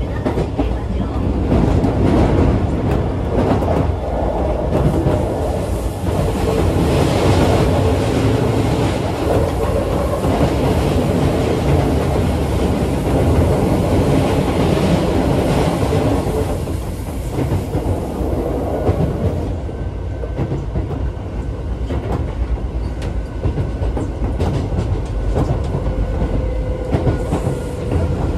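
Running noise inside a Keisei 3400 series commuter train car: a steady rumble of wheels on rail with intermittent rail-joint clicks, the noise easing somewhat about two-thirds of the way through.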